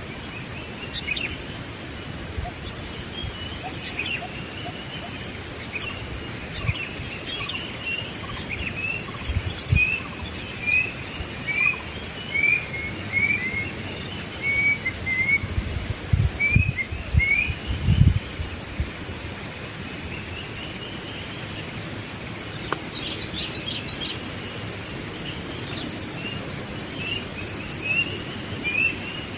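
Wild birds chirping in short, repeated notes, often a couple a second, with a quick flurry of notes a little past the middle, over a steady high insect drone. A few low thumps come around the middle.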